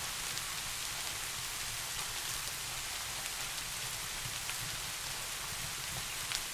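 Steady rain falling, an even hiss with scattered drop ticks, and one sharper click near the end.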